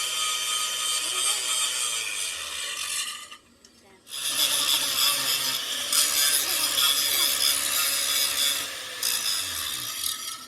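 A power tool working metal, a steady harsh noise that stops for about half a second around three and a half seconds in, then starts again and cuts off abruptly at the end.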